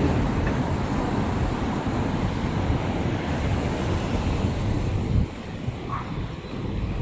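Steady low rumble of passing road traffic, easing off about five seconds in.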